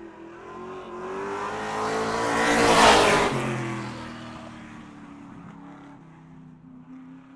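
A car driving past: the engine and road noise swell to a peak about three seconds in, the engine note drops in pitch as the car goes by, and the sound then fades away.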